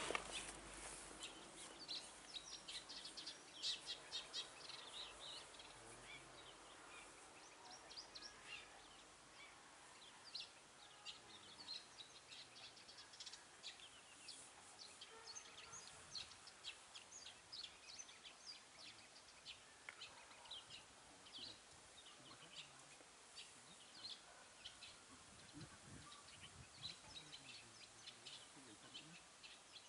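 Faint chirping of small birds: many short, high chirps scattered throughout, over a quiet open-air background.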